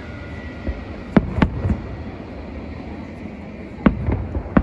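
Aerial fireworks bursting: a quick run of three sharp bangs about a second in, then three more near the end, over a steady low rumble.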